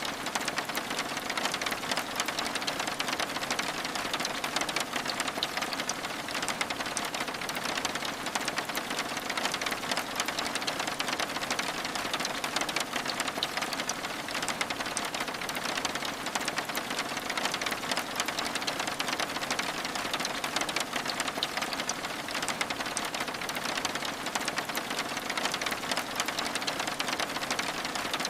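Steady rain pattering on window glass: an even hiss dense with tiny ticks of drops.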